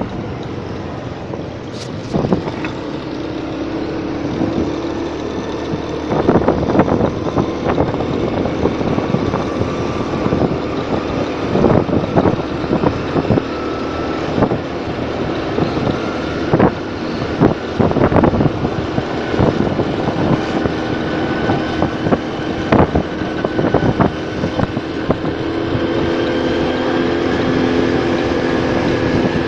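Motorcycle riding along: the engine running with a steady hum while wind and road noise rush over the microphone, broken by frequent short thumps and knocks. The engine tone grows louder near the end.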